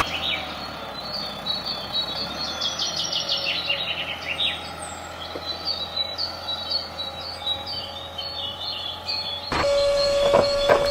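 Birds chirping, with a quick falling trill a few seconds in, over a faint steady low hum. Near the end a louder steady whine starts, with clicks.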